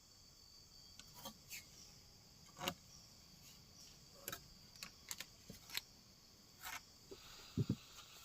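Forest insects chirring in a steady high tone, with scattered light clicks and knocks and two louder low thumps close together near the end.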